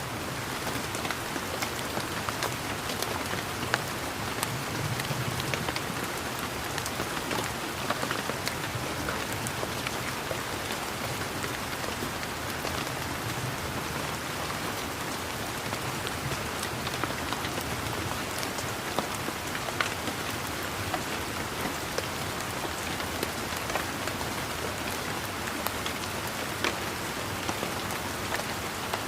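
Steady rain falling, with many separate drops pattering in a constant hiss.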